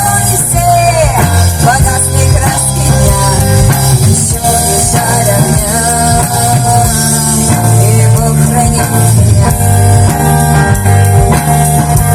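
Rock band music with guitar, bass and drums under a melodic lead line that bends in pitch about a second in.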